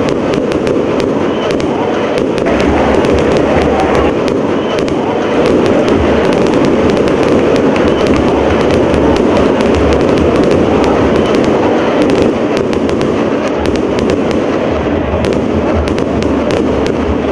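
Fireworks and firecrackers crackling and popping in rapid, irregular bursts over a loud, steady stadium crowd din.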